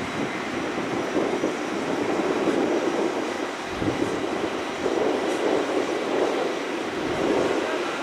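Airbus A320 jet engines: a steady rushing rumble that swells and eases every second or two, with a faint high whine.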